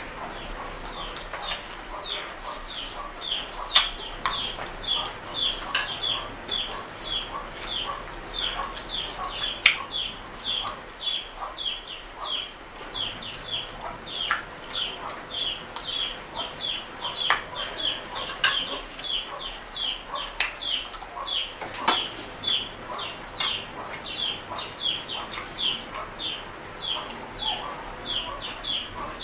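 A bird chirping over and over, two or three short high calls a second, typical of chicks peeping. Over it come sharp clicks and smacking from someone eating with their hands, the loudest two clicks about four and ten seconds in.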